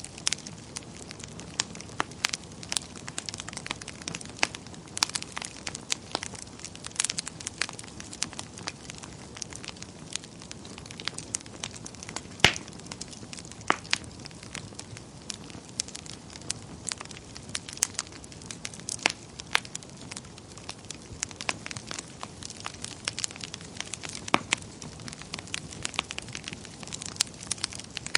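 Wood fire burning in a fireplace, crackling and popping irregularly over a soft steady rush of flame, with one louder pop about halfway through.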